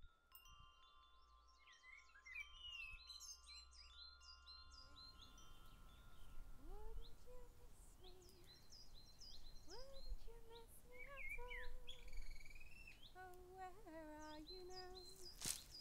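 Faint outdoor birdsong: many short high chirps and trills, with lower, longer gliding calls joining from about six seconds in. A single sharp click comes near the end.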